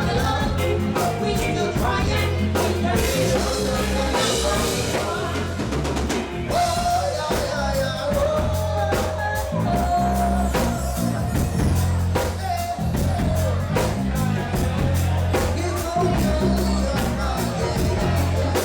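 Live reggae band playing, with a steady, repeating bass line under a drum kit keeping time.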